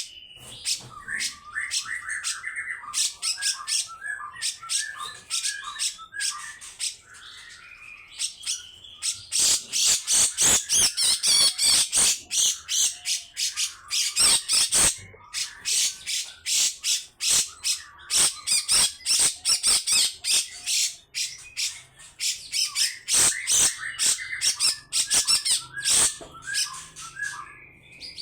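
Grey-cheeked bulbul (cucak jenggot) calling: long runs of rough, rapid harsh notes, with softer bubbling warbles near the start and again near the end.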